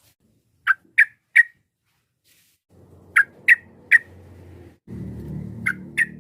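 Sooty-headed bulbul giving short, sharp calls in three bursts of three quick notes, about two and a half seconds apart. A low rumbling background noise comes in about halfway.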